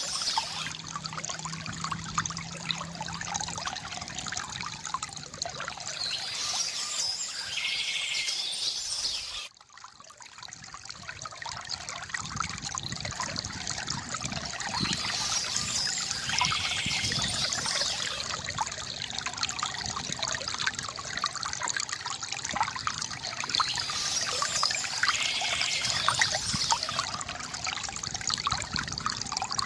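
Water from a bamboo fountain trickling and pouring steadily, with birds chirping a few times. About ten seconds in, the water sound cuts out briefly and swells back.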